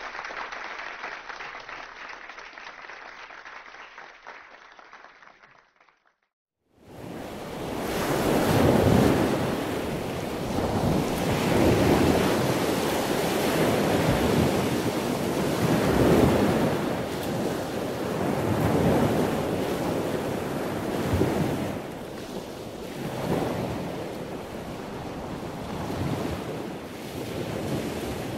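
Rushing water and wind of a sailing yacht driving fast through rough sea, the bow wave and spray swelling and easing every few seconds, with wind buffeting the microphone. It starts abruptly about seven seconds in, after a short gap.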